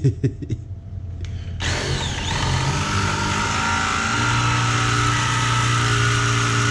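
Electric drill starting up about a second and a half in, its motor rising in pitch and then running steadily at speed before stopping abruptly at the end. A few short knocks come just before it.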